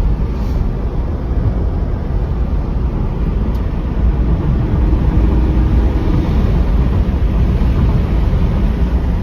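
Toyota Supra's twin-turbo 2JZ-GTE inline-six and the road, heard from inside the cabin while driving: a steady, loud low rumble with road noise and a faint rising engine note around the middle.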